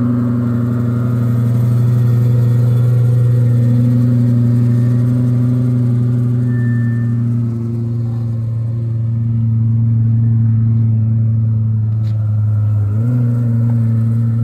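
Twin-turbo Lamborghini Gallardo V10 idling steadily, its idle stepping up slightly near the end.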